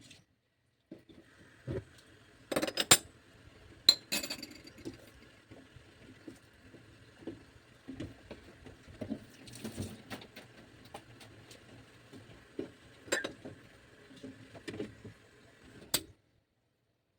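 Kitchen dishes and utensils clinking and knocking in a scatter of sharp hits, the loudest a few seconds in, over a faint steady hum; it stops abruptly near the end.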